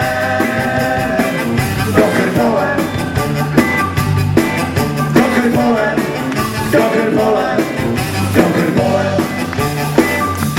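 Rock and roll band playing live, with drums and bass keeping a steady driving beat under pitched lead lines.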